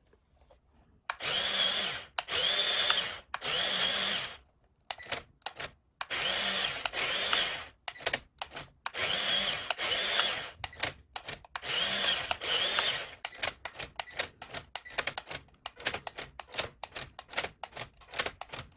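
Small electric motors and plastic gears of a motorized CaDA brick Ferrari 488 model running in bursts of about a second, each with a high whine that rises and falls. Over the last few seconds the bursts turn into many quick short blips.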